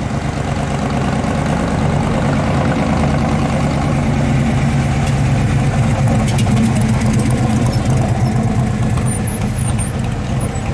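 AC Cobra V8 running at low revs as the car drives slowly past. Its deep, even exhaust note grows louder to a peak a little past halfway, then eases as the car pulls away.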